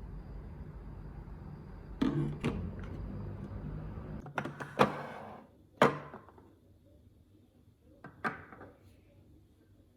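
A few sharp clicks and knocks, the loudest about six seconds in, over a low steady hum that stops about four seconds in.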